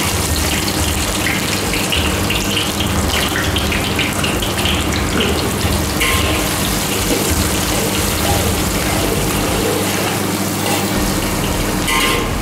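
Sliced shallots sizzling steadily in hot oil in a steel wok, the first step of frying the sliced spice paste, with the metal wok spatula now and then scraping the pan.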